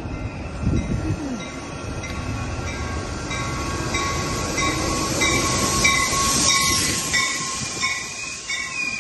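Metra commuter train passing on the rails. The rail noise builds to its loudest about six seconds in, under a steady high wheel whine and a regular ticking.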